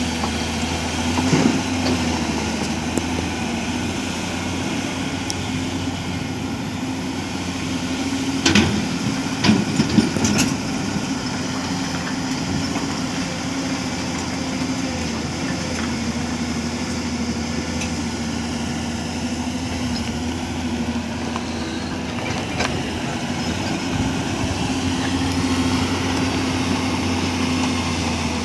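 Diesel engine of heavy construction machinery running steadily, with a few short clanks about a third of the way through.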